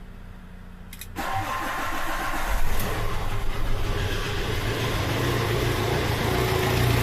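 Fiat Ducato van engine starting about a second in, then running cold and growing louder. It is running with low oil pressure, about 2 bar where over 4 is expected, which the mechanic puts down to its badly dented oil pan.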